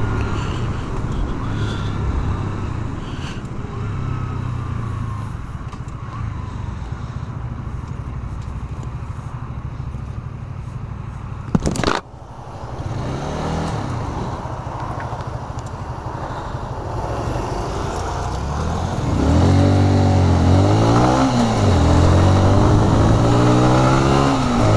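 A Honda CBR125R's small single-cylinder engine running as the motorcycle rides, with wind rush over the helmet camera. There is one sharp knock about halfway through. Near the end the engine revs up again and again, its pitch rising and then dropping back at each gear change as the bike accelerates.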